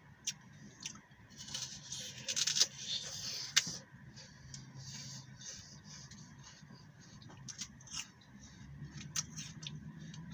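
Biting and chewing a crisp raw green apple: a crunching burst about two seconds in ending in a sharp snap, then quieter chewing with scattered wet clicks.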